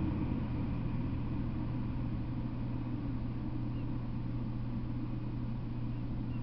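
Rumble of a freight train that has just passed, dying away in the first second, leaving a steady low hum.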